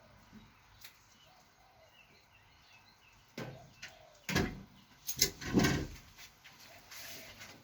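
Several separate knocks and clunks, the loudest a cluster about five to six seconds in, from work on a RockShox Judy suspension fork, with faint bird chirps behind.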